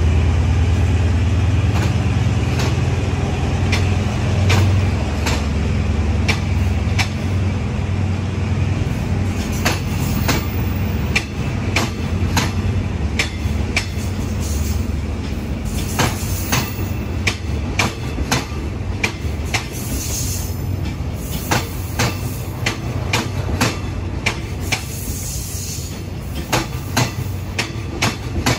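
Diesel-hauled passenger train pulling out of the station: a low engine drone fades as the coaches roll past, their wheels clicking over the rail joints, the clicks coming closer together as the train gathers speed.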